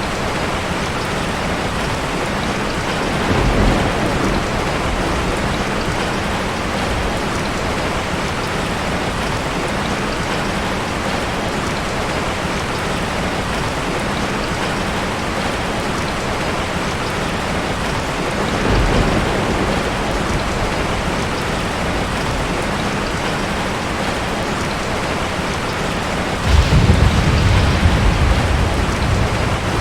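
Heavy rain falling steadily on a tin roof. Low thunder rumbles come a few seconds in and again about two-thirds through, and a louder, longer roll of thunder comes near the end.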